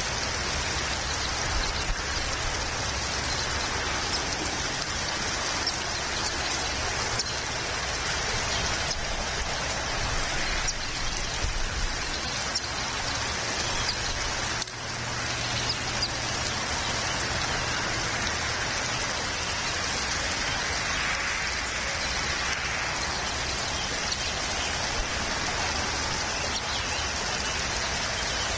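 Steady rain falling, an even hiss with scattered small drop ticks, dipping briefly about halfway through.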